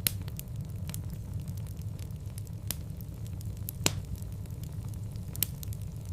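Fire burning in a fireplace: a steady low rumble with scattered crackles and sharp pops, the loudest pop about four seconds in.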